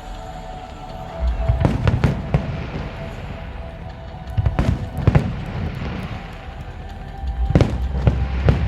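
Fireworks bursting in three clusters of sharp bangs, about a second and a half in, around four and a half seconds in, and again near the end, with music playing underneath.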